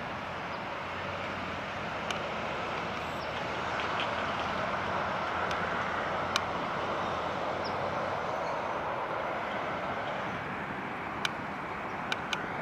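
Steady rushing noise of distant engines, swelling for several seconds in the middle, with a few sharp clicks scattered through it.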